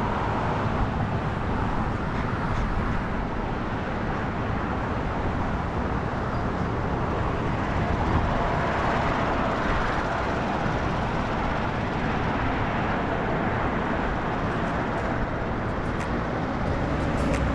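Steady street traffic noise, a continuous rush of passing vehicles, with a few faint ticks near the end.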